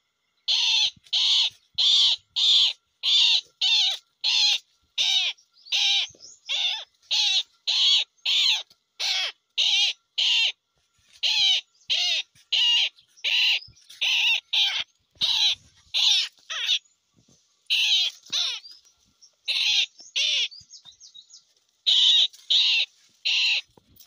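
A bird calling over and over in short, evenly spaced notes, about two a second, with a few brief pauses in the run.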